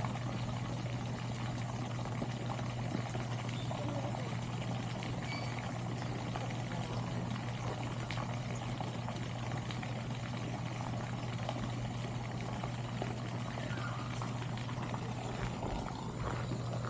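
Water pouring and trickling steadily over a constant low hum.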